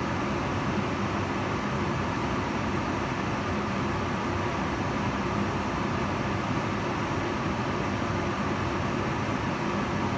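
Kitchen range hood fan running steadily: an even rush of air with a faint motor hum, unchanging throughout.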